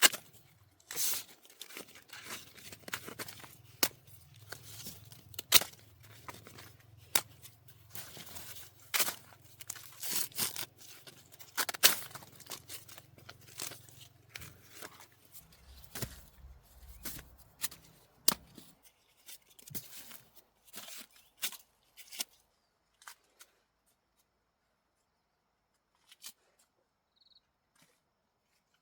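Dry corn being harvested by hand: repeated sharp snaps and tearing as ears are broken off the stalks and husks torn, with rustling of dry leaves between. It stops about 22 seconds in, leaving only a few faint clicks.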